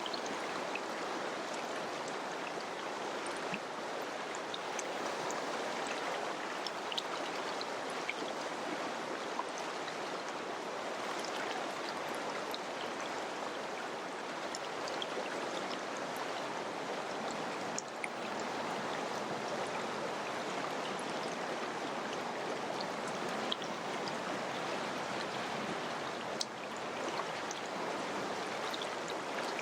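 Mountain river rushing steadily over rocks, a constant even roar with small splashes and droplet ticks scattered through it.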